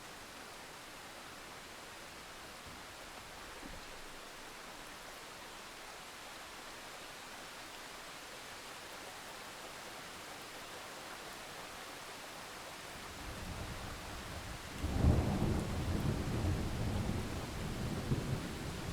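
Thunderstorm: steady rain hiss, then thunder that starts to rumble about two-thirds of the way in, breaks into a loud peal about fifteen seconds in and keeps rolling to the end.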